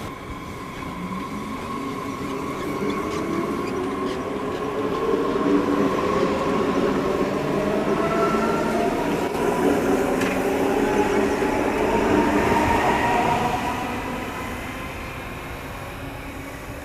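Electric train accelerating: its traction motors give a whine of several tones that rise steadily in pitch as it gathers speed, over the rumble of wheels on the rails. The sound swells as the train passes and then fades.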